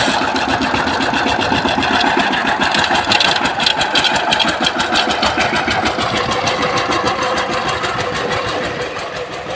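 Power tiller engine running steadily with a rapid, even chugging beat, slowly getting quieter toward the end.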